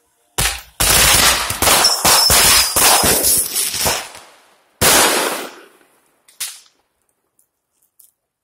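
Aerial fireworks bursting overhead: a sharp bang, then a fast crackling run of reports for about three seconds, then one more loud boom that echoes away, and a last small pop.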